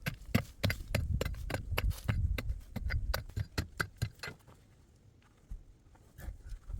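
A quick run of sharp knocks, about four a second, that stops after about four seconds, followed by a few scattered knocks.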